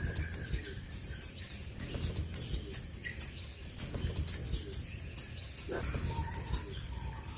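Crimson sunbird singing: a quick run of thin, high chirps repeated about three to four times a second.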